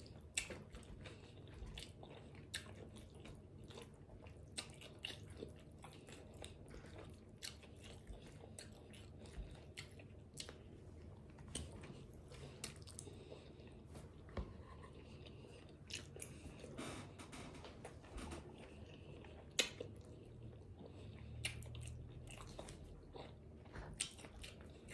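Faint close-up chewing and mouth sounds of a person eating a chicken-and-rice burrito bowl, with many short soft clicks scattered throughout.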